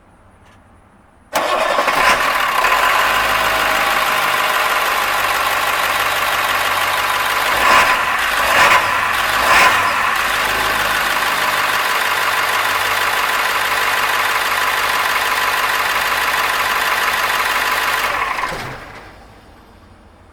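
International T444E 7.3-litre V8 turbo-diesel in a 2000 AmTran RE school bus starting abruptly about a second in and running steadily, with three brief louder moments around the middle. Near the end it is shut off and dies away.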